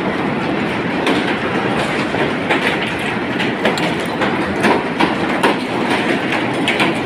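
Windstorm with hail: a steady roar of strong wind with a dense, irregular clatter of hailstones striking hard surfaces.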